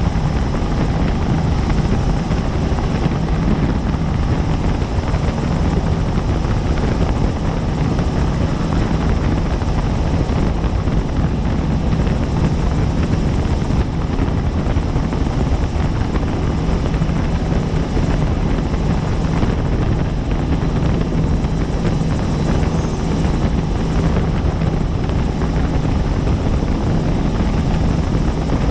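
Helicopter in flight heard from inside the cabin: steady loud rotor and turbine noise with a constant low hum, unchanging throughout.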